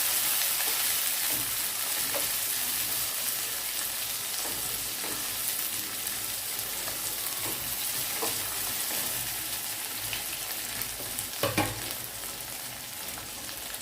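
Chopped tomatoes and onions sizzling in hot oil in a pan while they are sautéed and stirred, the sizzle easing off gradually, with faint scrapes of the spoon and one sharper knock against the pan about eleven and a half seconds in.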